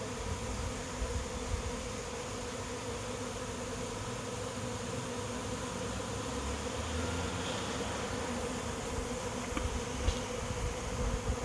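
A honey bee swarm arriving at a swarm trap, many bees flying at once: a steady, dense buzzing hum.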